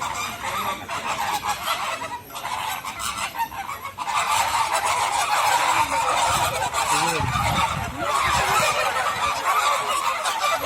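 Dense chorus of goose-like honking from a large flock of birds, many calls overlapping continuously, growing fuller after about four seconds.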